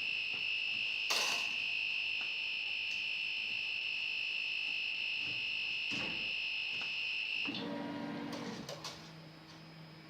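Geeetech i3 3D printer's buzzer sounding one long, steady, high-pitched beep while the printer is paused for a filament change, cut off about seven and a half seconds in. A low steady hum and a few light clicks follow.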